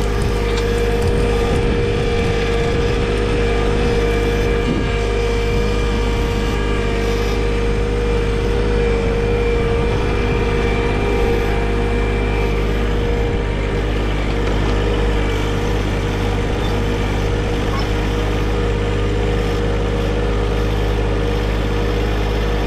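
John Deere 1023e compact tractor's three-cylinder diesel engine running steadily at a constant speed.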